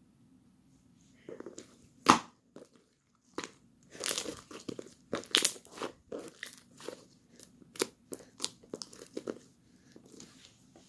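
Irregular crisp crunching and crinkling, like something crunchy being bitten and chewed, starting about a second in, with one sharp, loud crunch about two seconds in.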